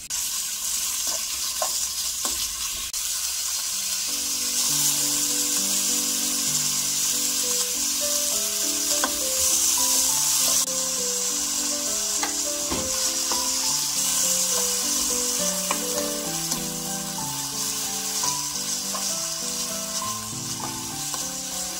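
Strips of pork tenderloin and minced garlic sizzling steadily in hot oil in a nonstick frying pan. The meat is being stirred with a spatula, with a few sharp taps against the pan. Soft background music with a simple melody comes in about four seconds in.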